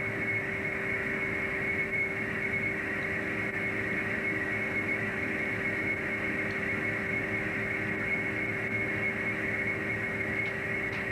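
Steady machinery drone aboard a fishing boat: a constant low hum with a thin high whine held at one pitch, unchanging throughout.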